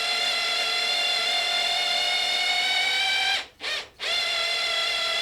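Electric drill running steadily with a high whine as it bores into oak. It slows and stops about three and a half seconds in, gives a brief burst, then runs again.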